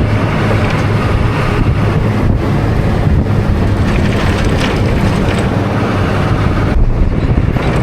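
Vehicle engine running steadily with a low hum, with wind buffeting the microphone; it cuts off abruptly at the end.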